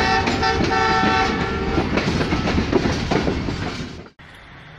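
Train horn sounding a chord of several tones, broken briefly just after the start and held until about a second in, then the rumble and clickety-clack of a running train, which cuts off suddenly about four seconds in, leaving faint hiss.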